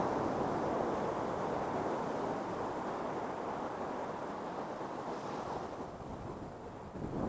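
Ocean surf: a wave's wash hissing up the beach and slowly fading as it recedes, with wind on the microphone.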